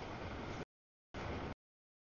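CSX intermodal freight train's empty well cars rolling past over the rails, a steady rumbling noise that cuts out abruptly to dead silence twice, coming back briefly in between: the audio is dropping out in chunks.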